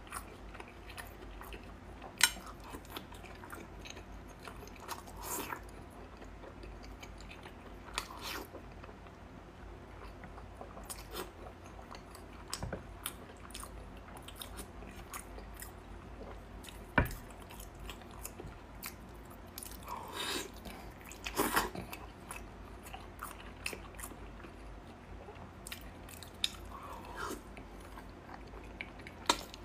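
Close-miked chewing and biting of fatty pig head meat: irregular wet mouth smacks and sharp clicks, with a few louder bites.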